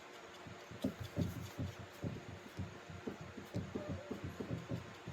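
Soft, irregular low thumps, several a second, starting about half a second in.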